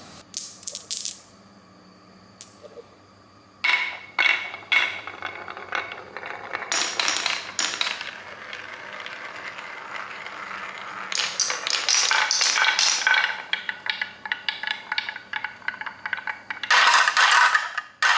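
Marbles rolling and clattering down a plastic marble-run track: irregular clicks and rattles, sparse at first, then a dense run of clacks, ending in a loud burst of clatter.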